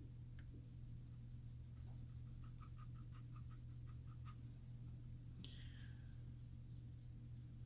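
Cotton round wet with Listerine rubbed quickly back and forth across a MacBook Pro Retina screen, about four strokes a second, to try to strip the delaminating anti-glare coating. A few strokes in the middle give a faint squeak.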